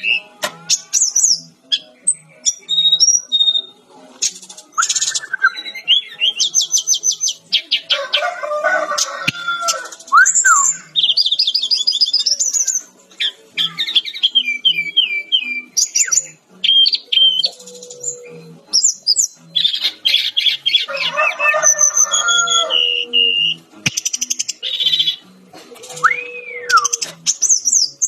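Fulvous-chested jungle flycatcher (Sikatan-Rimba Dada-Coklat) singing energetically and without pause. Its long, varied song strings together fast runs of repeated high notes, harsher chattering phrases, and whistled glides, one of which rises and falls near the end.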